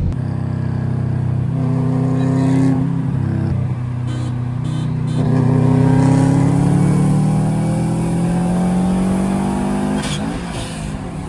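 Car engine accelerating: revs climb, drop at a gear change about three seconds in, climb steadily again for several seconds, then ease off near the end.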